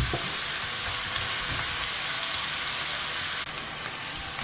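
Chopped onions, green chillies and curry leaves sizzling steadily in hot oil in a frying pan.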